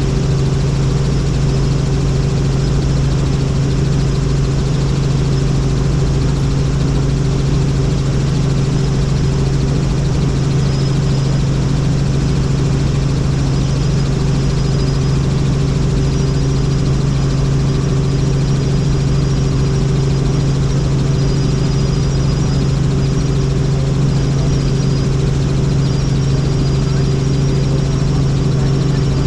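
Helicopter in flight: a loud, steady drone of rotor and engine, a low hum with a faint high whine above it, unchanging throughout.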